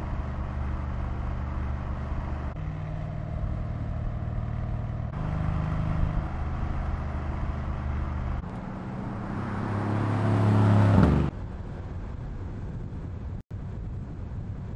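Mercedes-AMG S63 Coupe's twin-turbo V8 running under way, heard in several short cuts. About eight seconds in it grows louder and rises in pitch as the car accelerates, then cuts off suddenly near eleven seconds, leaving a quieter steady noise.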